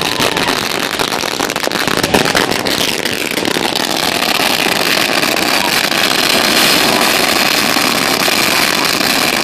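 Ground firework fountains spraying sparks: a continuous dense hiss and crackle of many small pops. A falling whistle comes a few seconds in, and about four seconds in a steady high-pitched whine sets in over the crackle.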